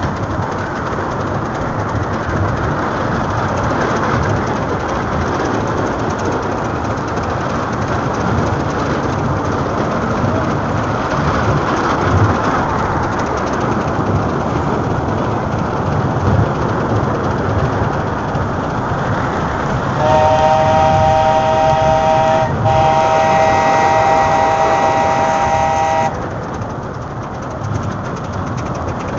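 Old steam train running along its track with a steady rumble and rattle. About two-thirds of the way through, its whistle sounds a chord of several notes in two blasts, a short one and then a longer one, louder than the running noise.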